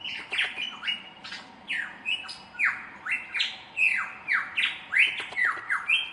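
A bird giving a rapid series of short, harsh squawking calls, each falling in pitch, about three or four a second.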